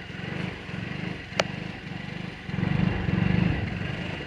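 Lexmoto Aura 125 scooter's 125 cc single-cylinder four-stroke engine running at idle with an uneven, pulsing beat that swells louder a little past halfway, while its check engine warning is on and the rider says it is "accelerating with no acceleration". A single sharp click about a second and a half in.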